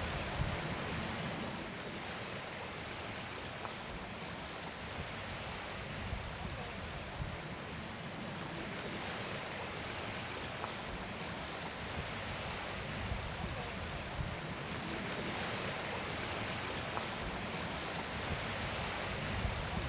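Steady rush of hurricane floodwater as it recedes and flows out, with small irregular ticks and splashes through it.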